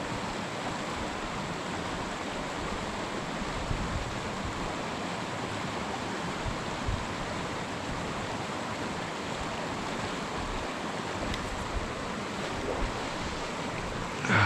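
Steady rush of mountain-stream water flowing, with occasional low wind buffets on the microphone and a brief louder sound at the very end.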